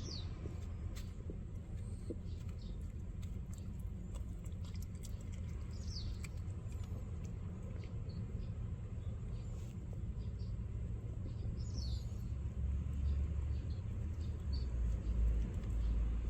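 Outdoor background: a steady low rumble with three short, high, falling bird chirps spread through it and faint small ticks.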